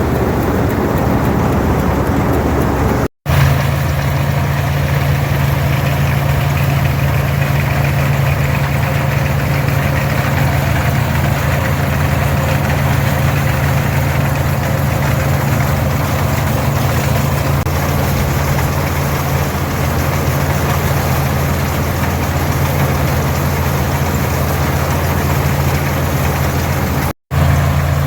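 International 460 tractor's six-cylinder diesel engine running steadily along with the machinery of the pull-type combine it drives. The first few seconds are a noisier rushing sound, then after a short break a steady low engine drone.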